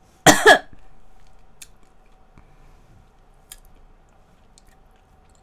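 Soft mouth clicks of close-up chewing and biting into castella sponge cake, after a short loud pitched sound about a quarter second in.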